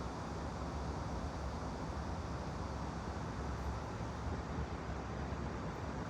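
Steady white-noise background, an even rumbling hiss heaviest in the low end, with no change in level.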